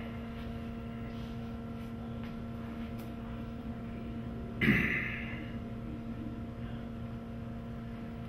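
Steady electrical mains hum in a quiet room. About halfway through, a man makes one short breathy vocal sound with a falling pitch.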